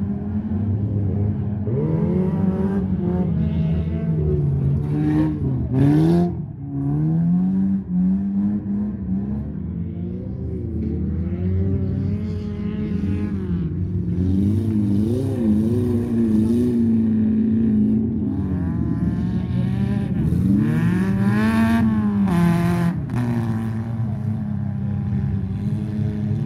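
Engines of old wreck-race cars revving hard as they race around a dirt track, their pitch climbing and falling again and again. A short loud burst about six seconds in.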